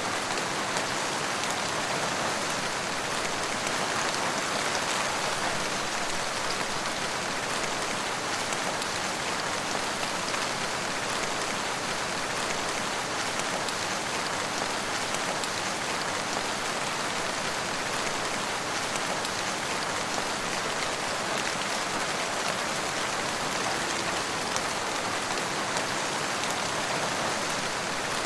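Steady rain falling, an even hiss of drops with faint scattered ticks, without change.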